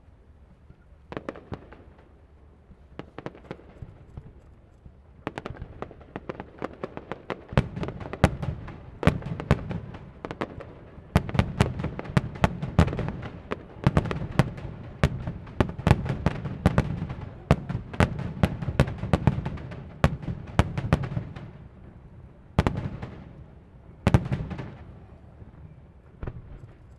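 Aerial fireworks display: sharp shell bursts, sparse at first, then a dense rapid barrage of reports, thinning to a few last loud bangs near the end.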